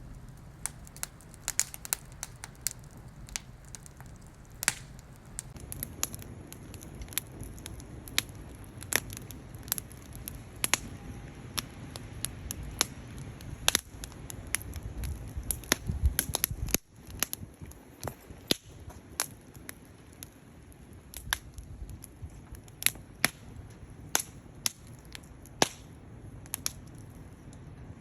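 Wood fire crackling: irregular sharp pops and snaps over a low, steady rumble. The rumble drops away suddenly about two-thirds of the way through, and the pops continue.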